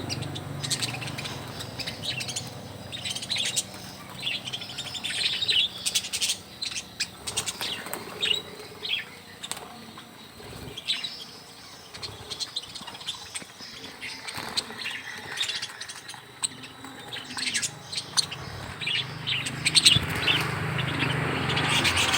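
A flock of budgerigars chirping and chattering in many short, high calls, with now and then a flutter of wings.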